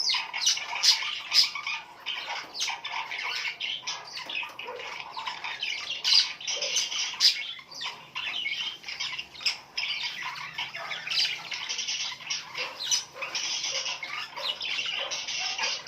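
A flock of small birds chirping and squawking together in dense, unbroken chatter, many short calls overlapping.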